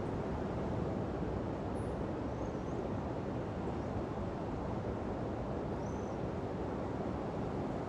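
Steady rush of ocean surf breaking on a sandy beach, with a couple of faint high chirps.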